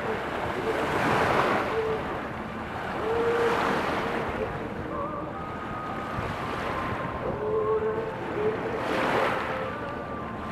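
Rushing wind and river water, swelling every two to three seconds, with wind on the microphone. A few short, faint tones sound near the middle.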